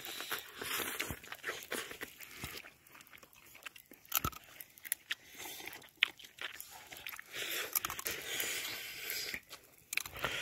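Close-up chewing and crunching of roasted chicken and raw leafy greens, irregular crunchy bites with a few sharper cracks.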